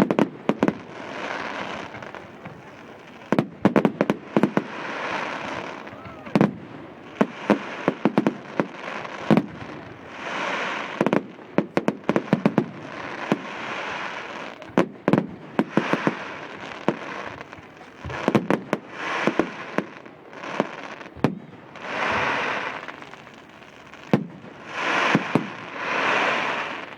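Fireworks display: a rapid, irregular run of sharp bangs from bursting shells, with noisy swells a second or two long between them.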